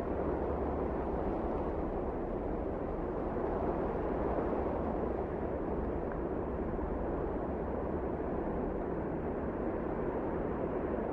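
Steady wind blowing in a blizzard, a low, even rushing noise with a deep rumble and no gusts or breaks.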